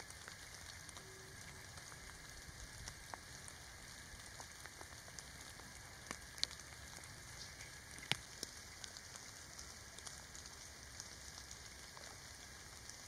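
Faint light rain and dripping water, scattered drops ticking against a soft hiss, with two louder drops about six and eight seconds in.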